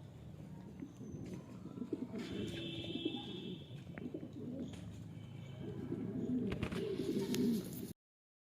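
American Show King pigeons cooing, with a few sharp clicks mixed in. The sound cuts off suddenly near the end.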